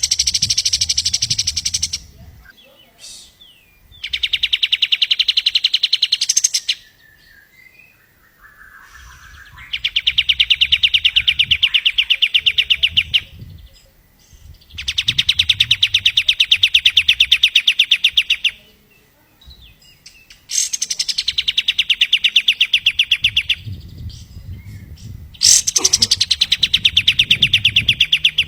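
Kapas tembak songbird singing a series of six long, very fast trills, each lasting two to four seconds with short pauses between. Several trills open with a quick falling note.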